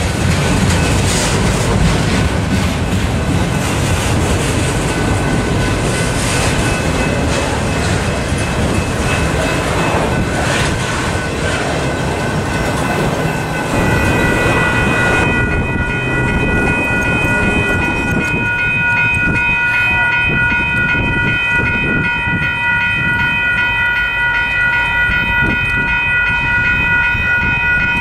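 Freight train autorack cars rolling past close by, with wheels clacking and a steady rumble. About halfway through this gives way to steady ringing of several high tones at once, a grade-crossing bell sounding for an approaching train.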